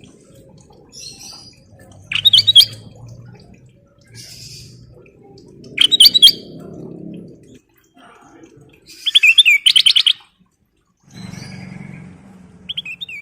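Kutilang emas (a bulbul) singing in short, loud bursts of quick chirping notes, four phrases a few seconds apart.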